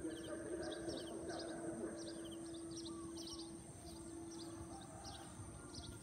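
Faint outdoor background: a small bird chirping in short, high, repeated notes about twice a second, over a steady low hum and a thin high whine.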